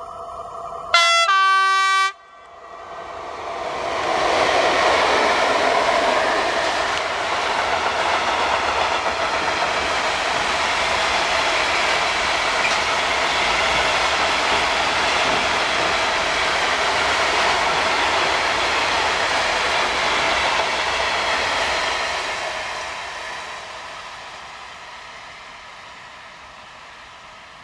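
Electric freight locomotive of the ET22 class (type 201E) sounding one loud horn blast of about a second, followed by its long train of tank wagons rolling past: the noise of wheels on rail swells over a couple of seconds, holds steady, then fades away over the last few seconds.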